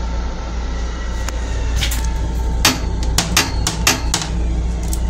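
Steady deep rumble of a moving LIRR M7 electric railcar, heard from inside its small restroom. A run of sharp clicks and knocks comes in the middle.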